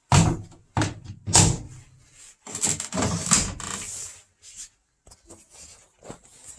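Three sharp thumps about half a second apart, like a door or lid knocking shut, followed by a couple of seconds of clattering and handling noise, then a few faint ticks.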